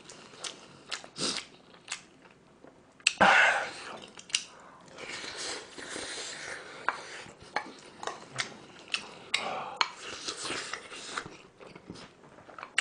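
A man chewing and eating hot kimchi pork-bone stew with ramen noodles and rice, picked up close by the microphone, with scattered wet smacks and short clicks of the spoon against the bowl.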